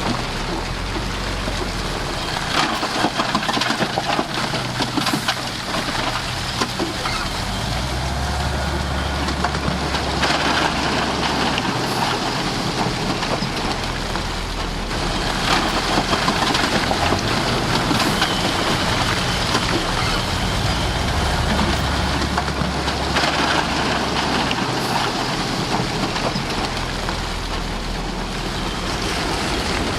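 Heavy diesel earth-moving machine running under load, with scraping and crunching of soil and rock; the low engine note swells and eases twice as the load changes.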